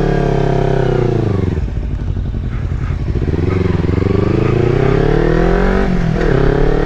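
Kawasaki Versys X300's parallel-twin engine pulling away and accelerating through the gears. The pitch climbs, drops at a gear change about a second and a half in, climbs again, and drops at another change near the end.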